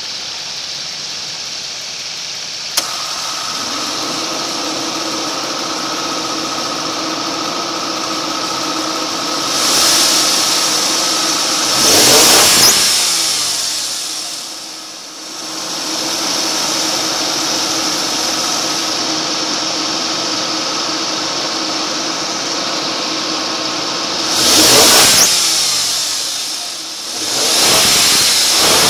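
2006 Suzuki Grand Vitara engine running, heard at its front belt drive. About three seconds in a click brings in a steady whine, taken for a faulty AC compressor. The engine is revved briefly several times, the pitch rising and falling with each rev.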